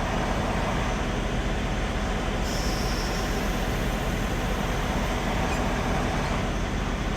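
Semi truck's diesel engine idling steadily, with a brief hiss of air about two and a half seconds in, as the truck's air system, back up to pressure, fills the air suspension bags.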